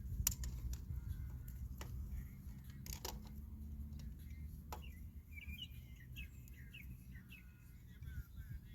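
Small birds chirping and twittering in short, gliding calls, mostly in the second half. Underneath, a low handling rumble and a few sharp clicks, the sound of e-bike parts and wiring being handled.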